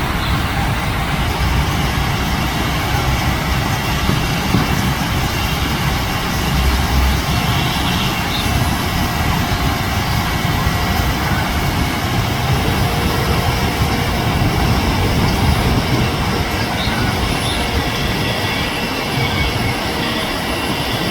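Loud, steady machinery noise with a few faint steady whines running through it.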